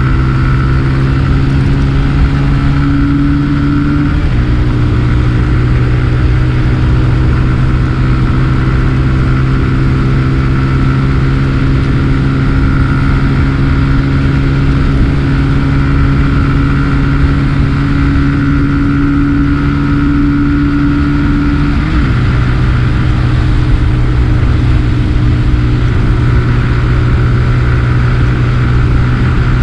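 SYM My150 scooter engine running at a steady cruising speed under a constant rush of wind and road noise, picked up by a GoPro Hero 7 through a foam wind muff. The engine note dips slightly about four seconds in and again about twenty-two seconds in.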